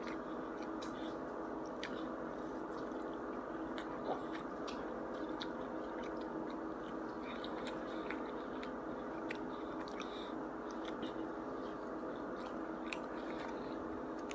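A person chewing and biting fried takeout food close to the microphone, with many small wet mouth clicks scattered throughout, over a steady background hum.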